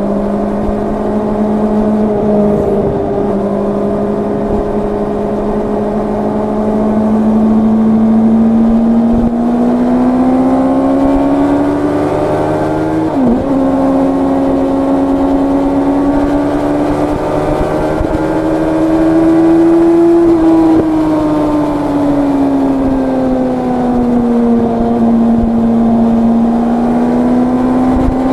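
Yamaha R1's crossplane inline-four engine running under way, its note climbing steadily with speed, then easing off and picking up again. There is a brief sharp dip in pitch about halfway through, like a quick gear change.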